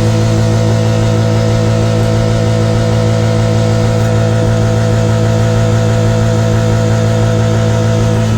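Car engine running at a steady speed, its low hum holding one even pitch.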